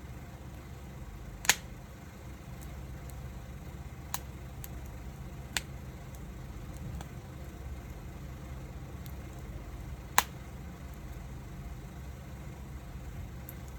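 Wood fire burning, with occasional sharp crackling pops, the two loudest about a second and a half in and about ten seconds in, over a steady low rumble.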